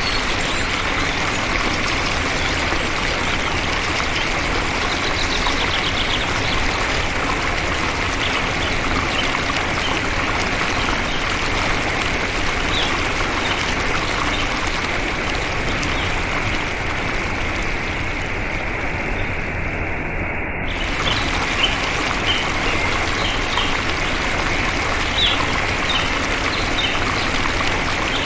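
Steady rushing ambient noise with scattered short bird chirps. The high hiss goes dull for a few seconds about two-thirds of the way through.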